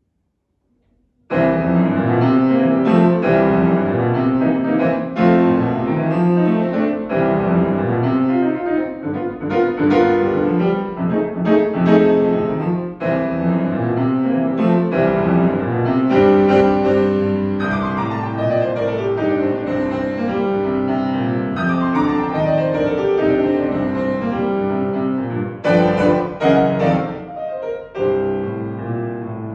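Solo piano playing a jazz-style piece, beginning suddenly about a second in after near silence, with dense chords and runs.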